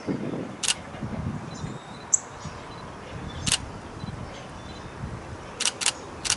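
Canon 90D DSLR shutter firing single frames: five sharp clicks spread unevenly, two in quick succession near the end. A bird chirps once briefly about two seconds in, over a low background rumble.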